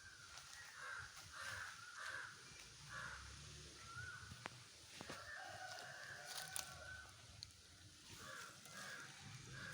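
Birds calling: a string of short harsh calls, about two a second, with a longer call near the middle and a pause shortly after.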